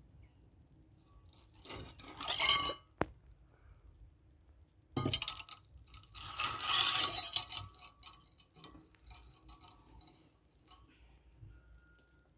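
Things being handled and rummaged through, in two spells of rustling and scraping with light clinks and a click: one starting about a second in, a longer one about five seconds in.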